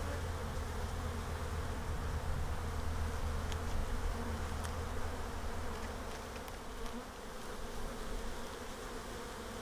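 Honeybees buzzing steadily around an open hive, a continuous low hum of many bees in flight, with a few faint clicks.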